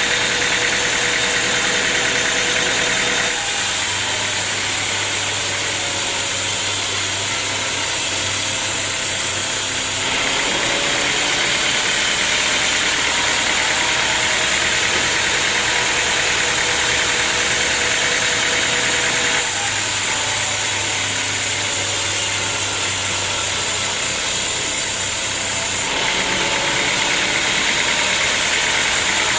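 Sawmill machinery running steadily, an engine-driven saw mill with loud, even mechanical noise. The sound switches abruptly between two similar textures every several seconds, one with a low steady hum.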